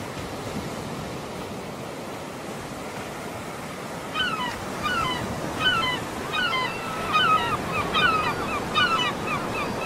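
Steady wash of surf. About four seconds in, birds start calling in quick, repeated chirping notes that slide in pitch, and the calls grow louder.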